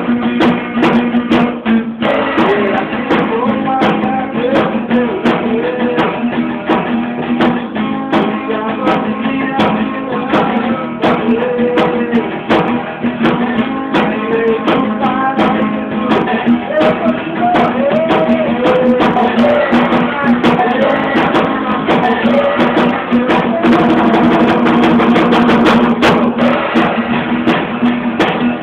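A small band playing a song live, led by a strummed guitar with a melody line over it.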